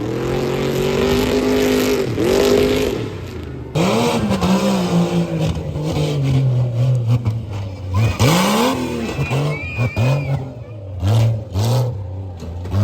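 Truck engine revving hard, its pitch held high, then climbing and sagging, with several quick throttle blips in the second half.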